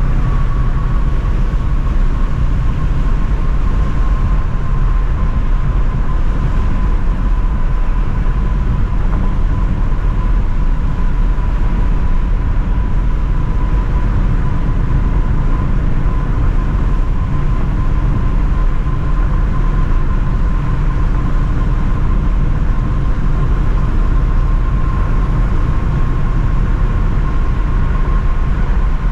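Ford Mustang Shelby GT350's flat-plane-crank V8 running at a steady cruise, with road noise and a thin steady whine over it; no revving or shifts.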